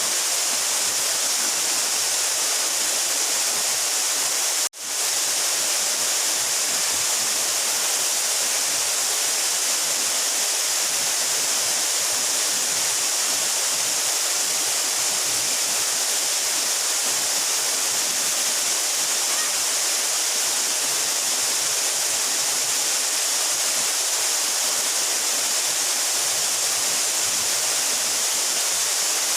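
Mountain waterfall about 12 metres high, its water falling and rushing in a steady, even hiss. The sound cuts out for an instant about five seconds in, then resumes unchanged.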